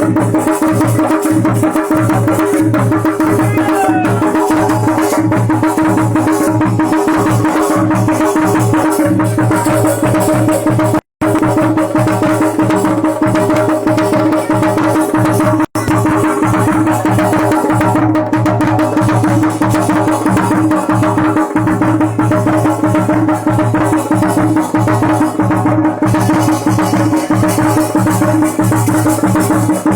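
Uttarakhandi jagar devotional music: fast, steady drumming over sustained droning tones. It breaks off for an instant twice, about 11 and 16 seconds in.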